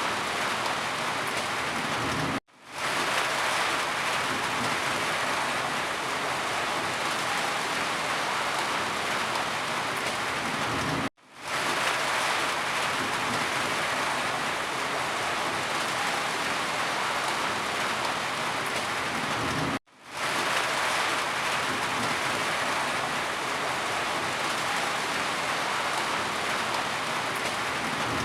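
Steady heavy rain, a dense even hiss. It cuts out abruptly three times, about every nine seconds, and fades back in within half a second each time.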